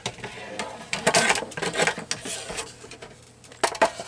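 Paper being worked by hand on a craft table: scratchy rustling and scraping for a second or so about a second in, with sharp clicks and taps before and after.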